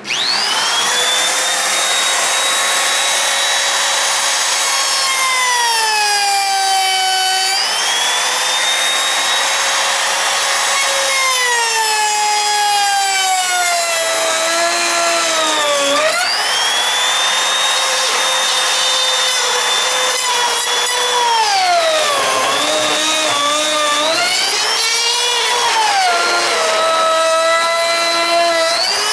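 Electric wood router spinning up and running at high speed with a steady whine, its pitch sagging and recovering several times as the bit is pushed through the workpiece under load. The deepest, longest bogging comes in the last third, on a full cutting pass that the motor struggles with.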